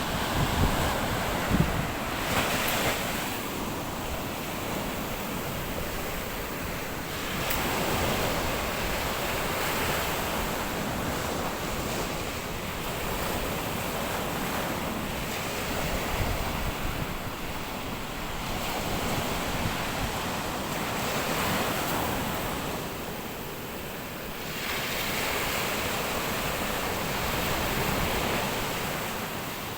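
Sea surf washing onto a sandy beach, the noise swelling and easing every few seconds as waves break, with wind buffeting the microphone.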